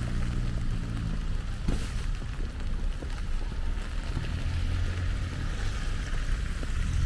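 Steady low rumble of street traffic, with a vehicle engine swelling briefly near the start and again past the middle, over a constant hiss of wind or slushy roads.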